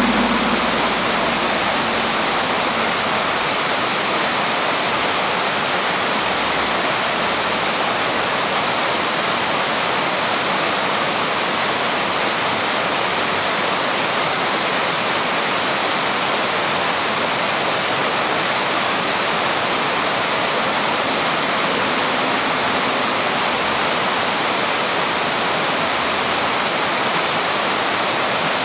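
Papineau Falls waterfall rushing steadily, an even, unbroken roar of falling water. A low hum fades out in the first few seconds.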